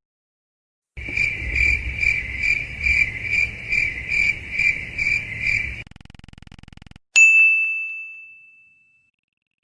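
Cricket-chirping sound effect, the 'awkward silence' crickets: a steady run of high chirps, about two and a half a second, over a low hum. After a short faint buzz it is followed by a single bright bell ding that rings out and fades over about two seconds.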